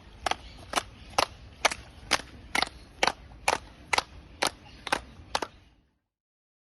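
Sharp cracks repeating evenly, about two a second, then stopping about a second before the end.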